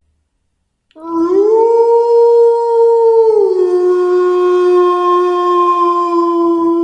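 Wolf howling: one long howl that begins about a second in, rises in pitch, holds, then drops slightly and holds steady.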